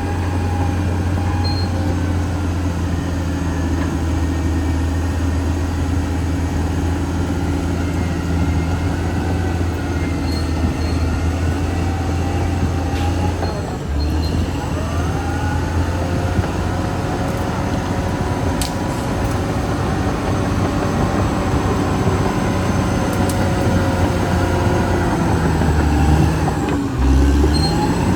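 Caterpillar D6R XL bulldozer's diesel engine running under load, with its steel tracks squealing and grinding as it works. The engine note drops briefly about halfway through and again near the end.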